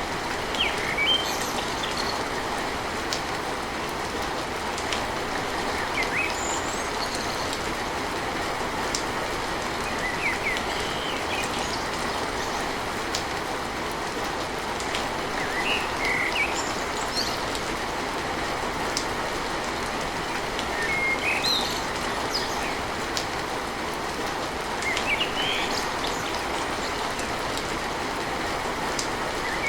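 Steady rain drumming on a tin roof, with short high bird chirps breaking through every few seconds.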